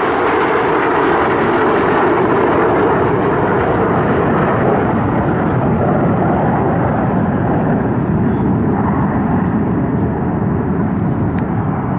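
Red Arrows BAE Hawk T1 jets flying past at a display, a loud steady jet roar from their Adour turbofans. A held whine sits in the roar for the first part and fades out, leaving a lower rumble.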